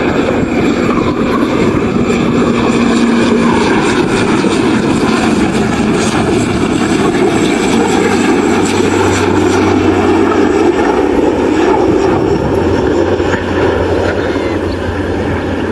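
Airliner engines running loud and steady as an aircraft moves close by, with a low hum joining in about halfway through.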